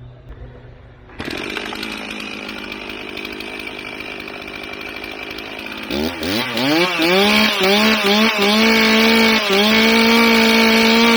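Two-stroke chainsaw that comes on suddenly about a second in and runs steadily. About halfway through it revs up to high throttle, with its pitch dipping briefly a few times, and holds at full revs.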